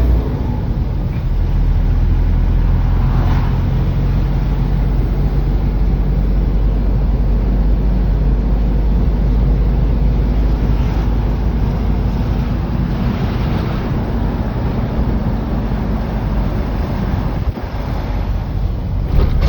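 Truck engine running at a steady low drone while driving, with road noise over it.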